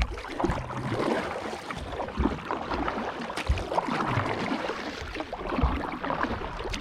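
Water splashing and sloshing around a Pungo kayak as it is paddled and pushes a floating tree, with irregular low thumps.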